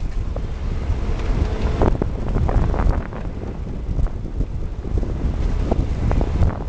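Wind buffeting the microphone: a gusty low rumble with scattered crackles.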